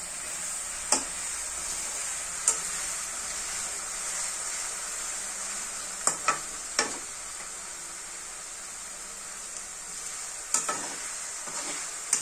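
Shredded potato deep-frying in hot oil in a kadai, a steady sizzle, with a metal spatula knocking against the pan now and then: once about a second in, again a little later, three times around six to seven seconds in, and a few more near the end.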